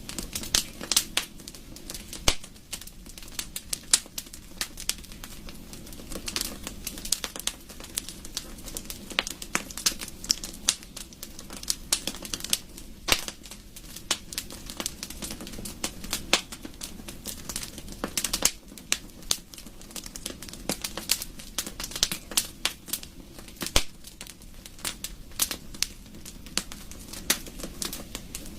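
Wood fire in a fireplace crackling: frequent, irregular sharp pops and snaps of varying loudness over a steady low rumble of the flames.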